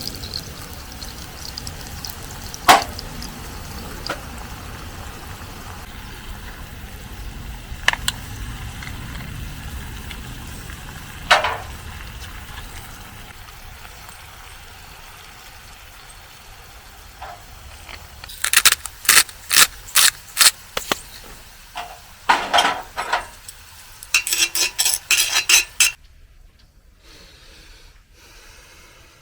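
Metal cookware and utensils clinking and knocking: a few isolated sharp knocks, then a quick run of strikes past the middle, the last ones ringing like struck metal.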